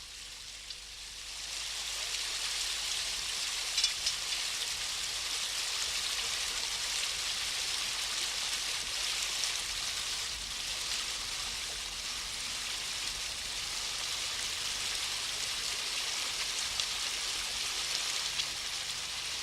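Water rushing over a river weir: a steady hiss that swells in about a second in and holds evenly, with a few faint ticks.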